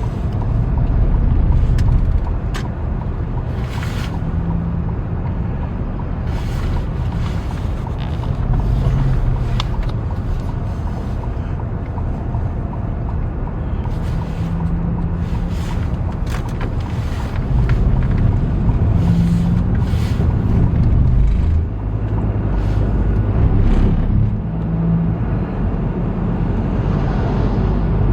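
Car engine and road noise: a steady low rumble with the engine note rising and falling, and scattered light knocks.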